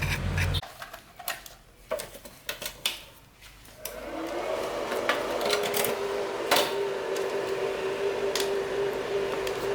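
A running motor-driven machine stops abruptly about half a second in, followed by a few clicks and knocks. About four seconds in, an electric motor spins up, its pitch rising briefly, then runs with a steady hum and occasional clicks.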